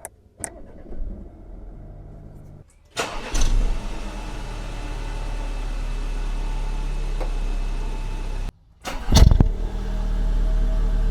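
Audi A4 35 TFSI's turbocharged 2.0 TFSI four-cylinder starting up twice, each time a loud flare that settles into a steady idle, breathing through a newly fitted DNA cotton performance air filter. A few light clicks come before the first start.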